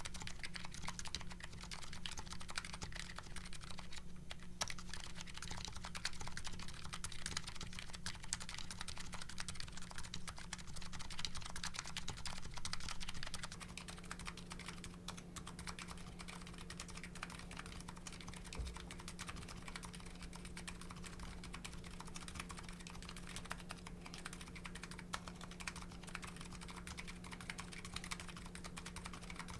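Continuous typing on a Nuxros Kraze custom keyboard with MetaKeebs electro-capacitive switches and GMK Hennessey keycaps: a dense run of keystroke clicks. About a third of the way in, the typing turns quieter and thinner as the recording microphone changes.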